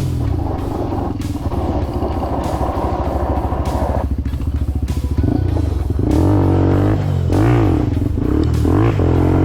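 Mini bike's small motorcycle engine running while riding, its pitch swinging up and down several times in the second half as the throttle is worked.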